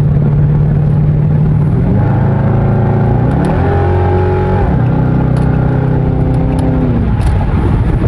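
Dodge R/T's 5.7 HEMI V8 with its mid mufflers and resonator cut out, droning steadily, then revs climbing in two steps about two and three and a half seconds in, falling back around five seconds in and again near seven.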